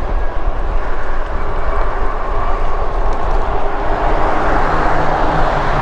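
Steady wind rush and road noise from riding an e-bike along a road, with low rumbling of wind on the microphone.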